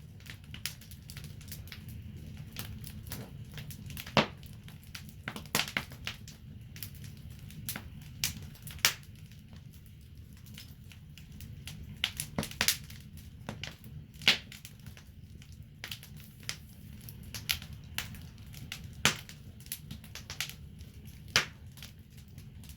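Wood fire crackling in a fireplace: sharp, irregular pops and snaps, a few of them loud, over a low steady rumble of the flames.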